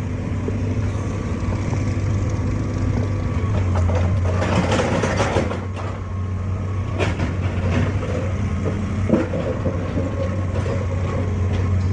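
Heavy diesel machine engine running steadily, with a stretch of scraping and clattering about four seconds in and a few sharp knocks later on.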